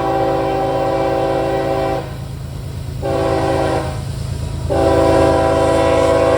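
CSX freight locomotive's multi-chime air horn sounding for a grade crossing: a long blast that breaks off about two seconds in, a short blast about a second later, then another long blast from near the five-second mark. Under it runs the steady low rumble of the locomotives passing.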